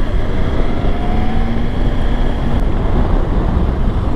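Riding a BMW S1000XR motorcycle: wind buffeting the bike-mounted microphone makes a loud, steady rumble, with the inline-four engine faintly rising in pitch for a second or two as it pulls away.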